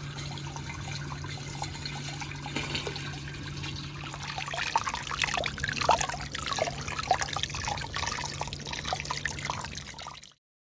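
Running water trickling and splashing, busiest in the middle, with a steady low hum under the first half; it cuts off suddenly near the end.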